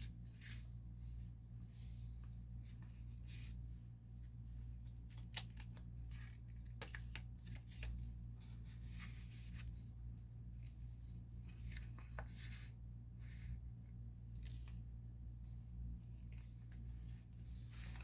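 Paper rustling and crinkling as the pages, cards and tags of a handmade junk journal are turned and handled, with many short crackles and light taps over a steady low hum.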